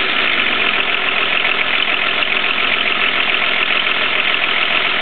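Volvo D24 2.4-litre straight-six diesel idling steadily in a Volvo 244, with an even, fast diesel clatter.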